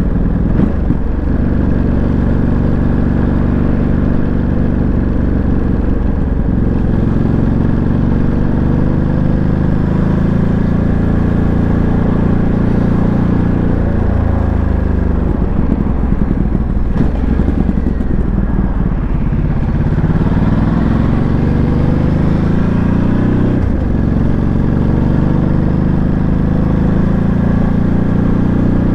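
Ducati Monster 937's Testastretta 937 cc L-twin engine heard from on board while riding, its revs climbing and dropping with gear changes and slowing, with sharp breaks at the shifts about six and a half and twenty-three seconds in.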